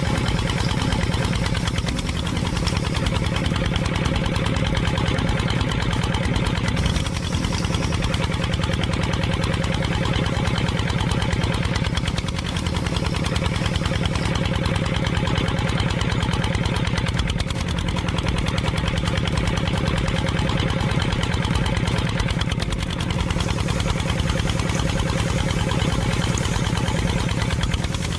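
Engine idling steadily with a rapid, even putter that does not change in speed or loudness.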